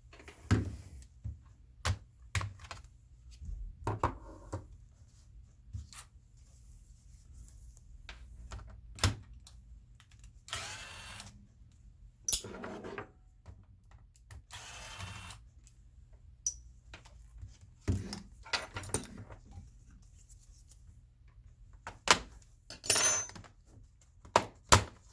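Clicks, knocks and taps of tools and screws on a Dell Inspiron 15-5559 laptop's plastic case as it is taken apart, with three rasping bursts about a second long, the loudest near the end.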